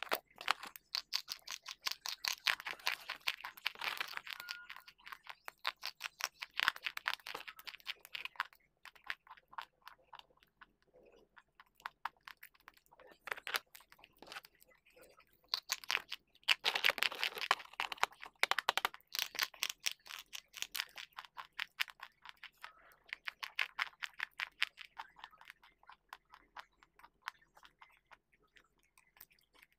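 Close-miked chewing of hard, dry white chalk-like pieces: dense crackling crunches that come in bouts several seconds long, with short quieter pauses between mouthfuls.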